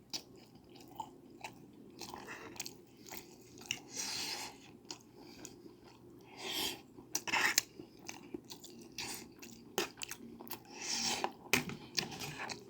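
A person chewing and eating food close to the microphone. Irregular wet mouth clicks and short bursts of chewing noise, louder at a few moments.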